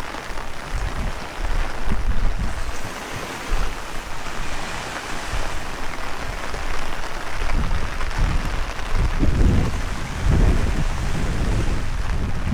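Heavy rain falling steadily while strong wind gusts buffet the microphone in uneven low rumbles, strongest in the second half.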